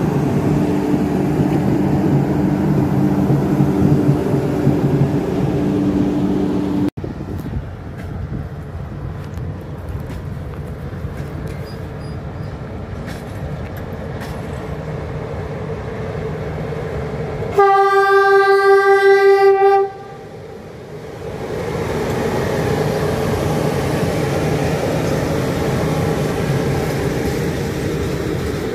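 Electric locomotive passing close, with a steady hum of several tones and wheel noise. After a cut, a locomotive horn sounds one long blast of about two seconds. It is followed by the rumble and clatter of a freight train of tank wagons rolling past.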